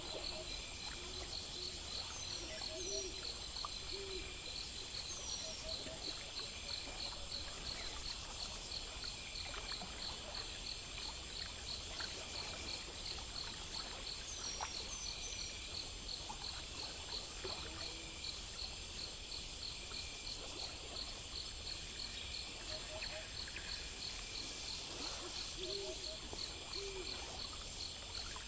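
Night nature ambience of crickets chirping in a fast, even rhythm. Low hooting calls come in pairs a few seconds in and again near the end, with occasional short high bird chirps.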